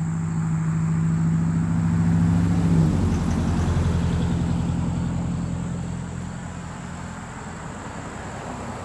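A motor vehicle driving past, its engine growing louder, dropping in pitch as it passes about three seconds in, then fading away.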